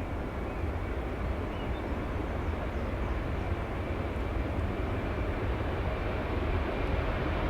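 Airbus A330 jet engines running steadily during a takeoff, a deep even sound that grows slightly louder near the end.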